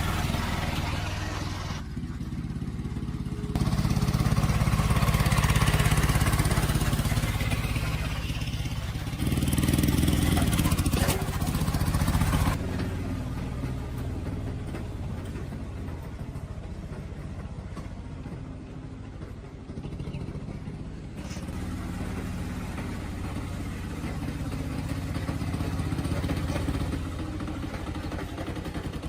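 A motor engine running steadily, its level jumping up and down abruptly several times.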